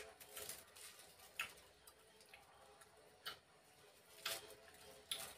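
Faint mukbang eating sounds: a handful of short, sharp mouth clicks and smacks, roughly a second apart, from chewing chewy cilok tapioca balls.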